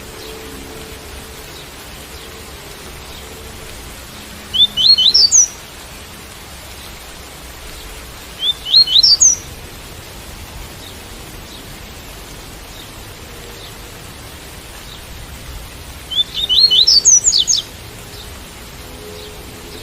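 Coleiro tui-tui (double-collared seedeater) singing three short phrases of quick rising notes, about five, nine and seventeen seconds in, over a steady hiss of rain.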